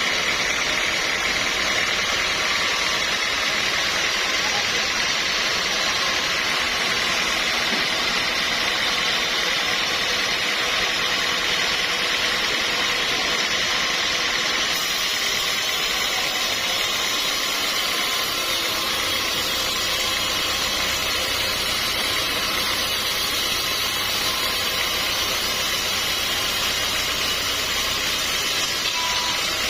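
Sawmill machinery running steadily. The low part of the sound grows fuller about two-thirds of the way through.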